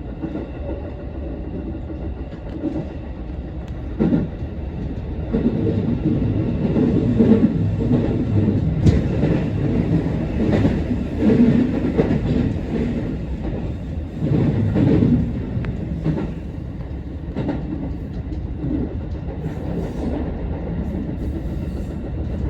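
Electric commuter train running on the Osaka Loop Line, heard from inside the car: a steady rumble of wheels on rail with scattered sharp clicks, louder through the middle stretch.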